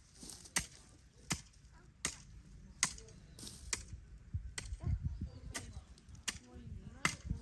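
Steady rhythmic chopping with a blade, about nine sharp strikes, roughly one every three quarters of a second, with some low thudding about halfway through.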